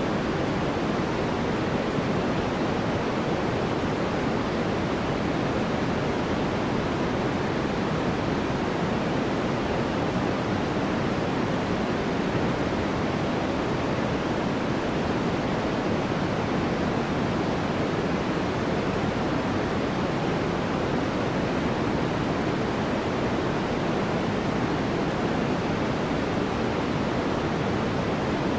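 Steady synthetic white noise: an even, unchanging hiss, fuller and deeper than a bright hiss, with its weight in the low middle range.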